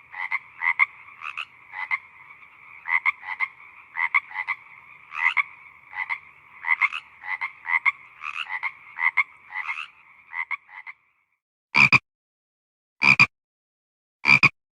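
A chorus of frogs croaking, many short calls overlapping. The chorus stops about eleven seconds in, and three short, loud sounds follow, evenly spaced a little over a second apart.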